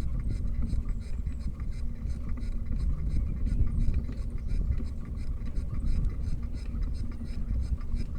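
Wind buffeting the microphone of a moving bicycle, with a steady hum and a regular light ticking several times a second.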